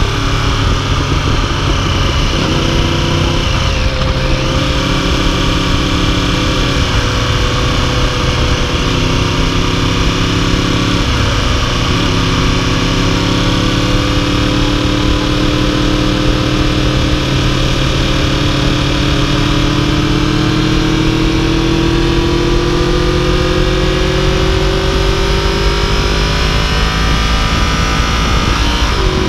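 Yamaha YZF-R1's crossplane inline-four running under way, heard from the dash mount with wind rushing over the microphone. The engine's pitch dips twice, about four and eleven seconds in, then climbs slowly for some fifteen seconds as the bike gathers speed.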